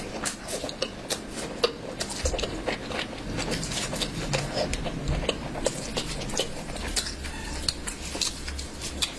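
Close-up eating sounds of someone chewing curry: wet smacks and clicks of mouth and lips, many in quick irregular succession.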